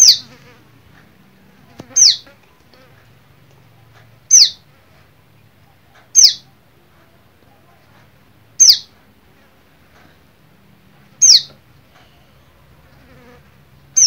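Small fledgling songbird calling: a short high chirp that slides downward, repeated about every two seconds.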